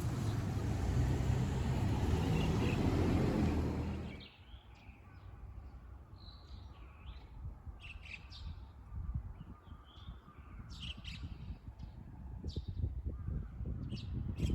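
A steady rumbling noise that cuts off abruptly about four seconds in, followed by birds chirping in short scattered calls over a quiet background, with a low rumble building again near the end.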